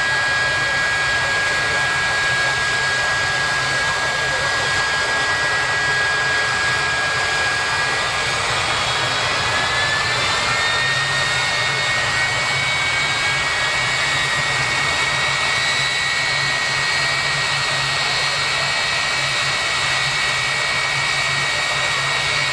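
Jet drag car's turbine engine running steadily with a loud rushing whine; its pitch glides up slightly about ten seconds in.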